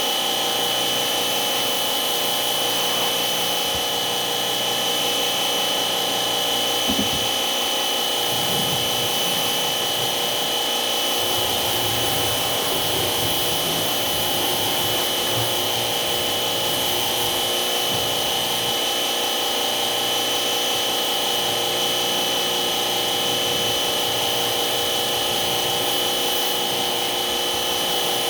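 A motor running steadily with a constant high whine, and a few light knocks in the middle.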